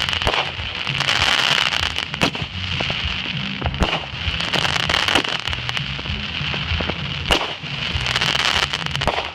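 Fireworks going off: dense, continuous crackling with many sharp pops and several louder bangs, about two, four and seven seconds in.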